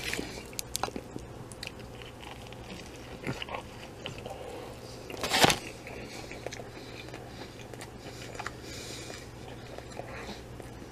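A person chewing a mouthful of chicken sandwich close to the microphone, with small clicks of mouth noise and one louder noise about five and a half seconds in.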